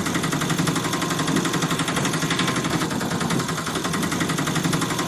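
Small engine sound running steadily: a fast, even putter-rattle with a low wavering hum, as of a toy tempo three-wheeler being driven along.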